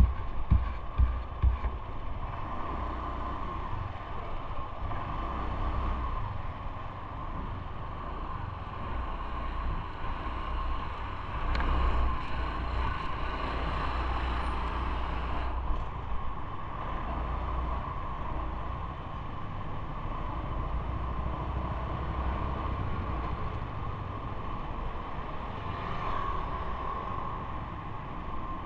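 Steady ride noise from a moving bike on city roads, with wind rumbling on the microphone and a constant hum underneath. A few knocks come at the very start, and the noise swells for a few seconds about twelve seconds in.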